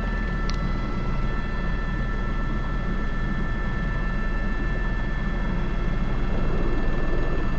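Airbus H125 helicopter in steady forward flight, heard from inside the cockpit: an even rotor and turbine drone with a steady high whine, and one short click about half a second in.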